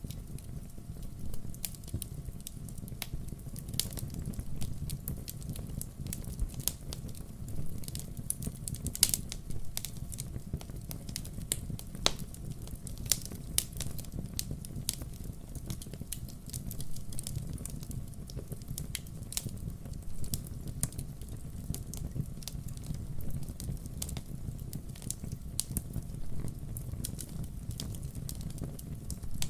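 Wood fire burning, crackling with frequent irregular sharp pops and snaps over a low steady rumble.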